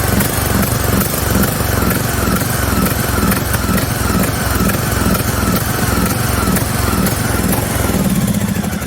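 John Deere LA110 lawn tractor engine running with an uneven, pulsing beat. It is misfiring and short of power, a fault that a new coil, battery, fuel pump and fuel filter and a cleaned carburetor have not cured. The engine sound fades slightly near the end.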